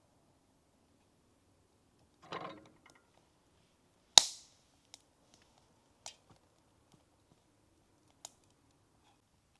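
A brief scrape, then one sharp, loud snap with a short ringing tail, followed by a few fainter clicks.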